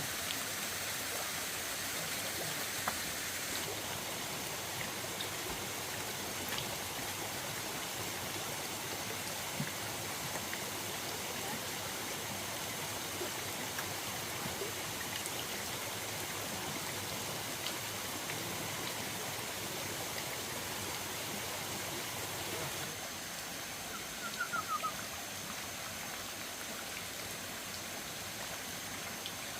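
Steady rushing of a forest stream. Near the end, a short run of four quick, high chirps that fall slightly in pitch.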